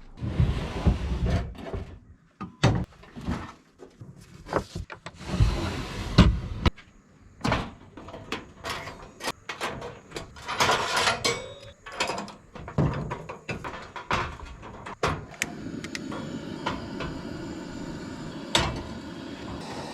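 Irregular clunks, knocks and rustling of things being handled, with a steady low rumble setting in for the last few seconds and one sharp knock near the end.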